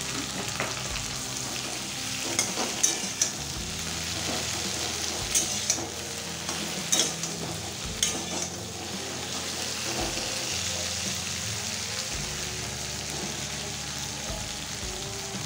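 Okra frying in hot mustard oil in a metal karahi, with a steady sizzle. A spatula stirs and turns the pieces, scraping and clicking against the pan several times in the first half.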